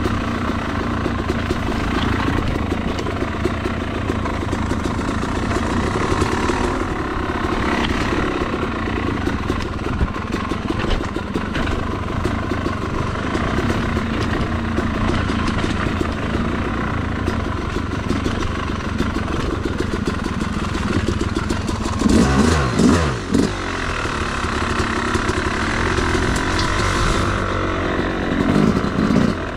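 Yamaha YZ250 two-stroke dirt bike engine running as it is ridden, with the revs climbing and falling sharply about two-thirds of the way in and again near the end.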